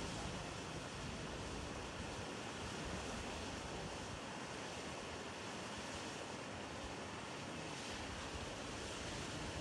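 Steady rushing outdoor ambience with no distinct events.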